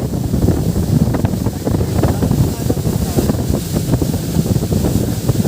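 Wind buffeting the microphone on a moving boat: a steady, loud rumble of gusts over the rush of water.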